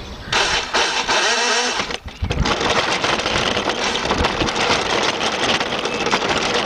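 Children's battery-powered ride-on car driving along, a steady noisy rattle and rumble of its wheels on the ground, with a brief break about two seconds in.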